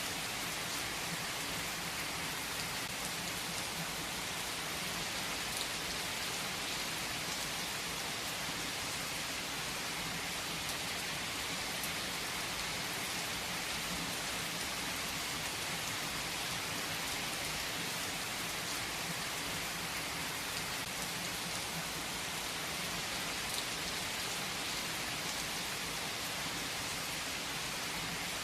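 Steady rain falling on a surface, an even hiss with scattered fine droplet ticks, unchanging throughout.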